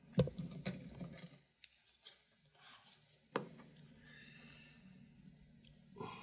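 Handling of small parts and tools on a workbench: a quick run of sharp clicks in the first second and a half, a single click about three and a half seconds in, and light rubbing and scraping between.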